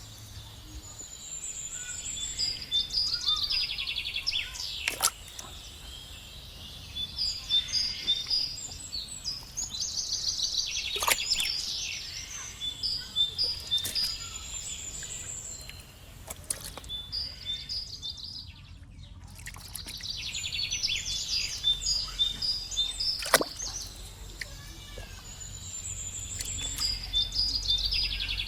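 Birds chirping and trilling over and over, with three sharp clicks spread through the stretch and a faint low hum underneath.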